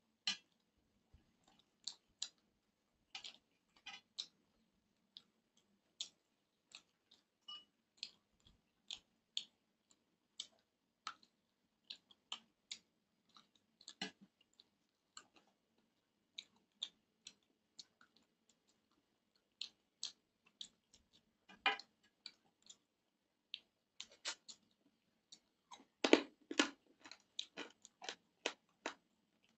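A person chewing with the mouth close to a clip-on microphone, giving sparse, short, wet clicks and smacks. A denser, louder run of them comes near the end.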